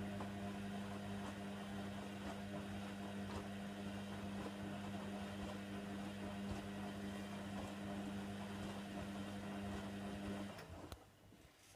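Hoover Nextra HNWL7146 washer dryer giving a steady, even electrical hum. The hum cuts off about ten seconds in, followed by a sharp click.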